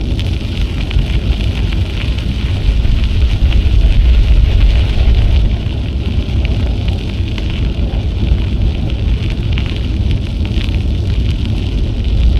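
Wind buffeting an action camera's microphone on a moving bicycle: a steady low rumble that swells and fades, over the hiss of the tyres rolling on the trail.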